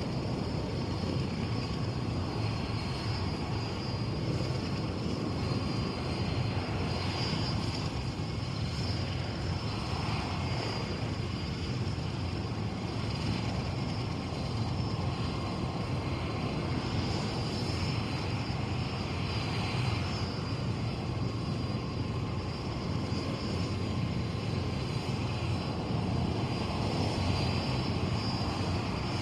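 Bell UH-1 "Huey" helicopter running steadily, its engine and rotor noise unbroken, with a steady high whine over a dense low rumble.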